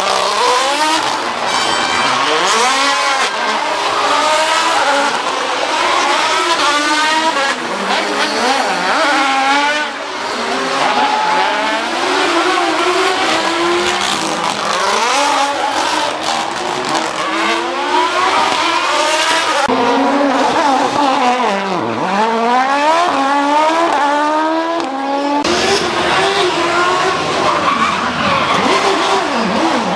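WRC rally cars' turbocharged engines at full throttle on a stage, revving up and dropping back as they change gear and brake for corners, one car after another in a series of short cuts about 10, 20 and 25 seconds in.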